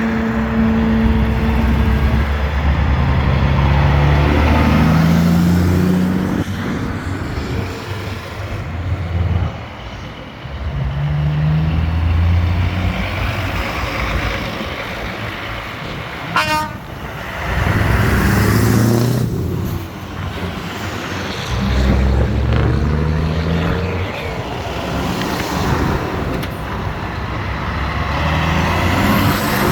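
Vintage trucks driving past one after another, their engines pulling up through the gears in rising steps. A horn toots briefly near the start.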